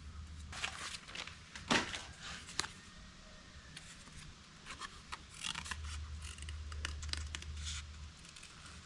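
Light scraping, rubbing and clicking of metal and hand tools being handled, with one sharper tap a little under two seconds in. A low hum comes and goes.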